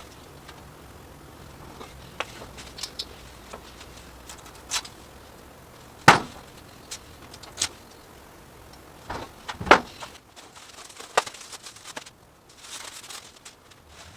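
Scattered knocks and clicks from handling work on a steel garage door panel while fitting an insulation kit, with two louder knocks, about six seconds and nearly ten seconds in.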